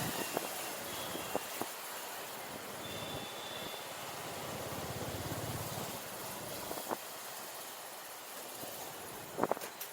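Steady outdoor street noise with no motorcycle engine running, broken by a few sharp clicks and knocks, the loudest pair near the end.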